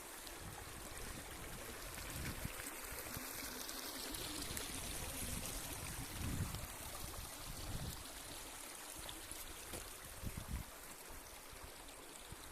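Small stream babbling and gurgling steadily over stones, with a few brief low rumbles around the middle and near the end.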